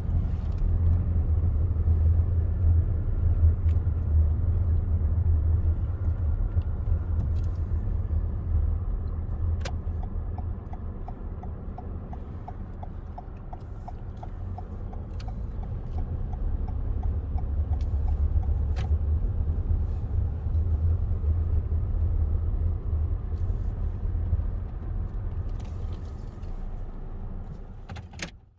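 Car driving, a steady low rumble of engine and road noise, with a run of quick light ticks for several seconds in the middle.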